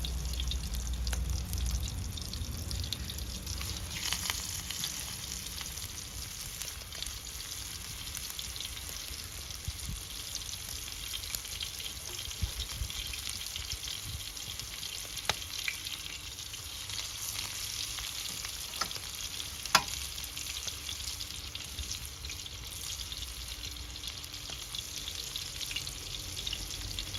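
Fish frying in oil over a wood fire: a steady sizzle with scattered sharp pops, the loudest about twenty seconds in.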